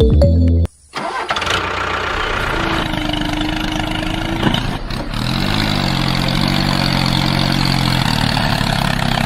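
Background music cuts off under a second in. A small machine's motor then starts and runs steadily, with a brief steady whine near the middle and a tone that shifts in pitch and holds later on.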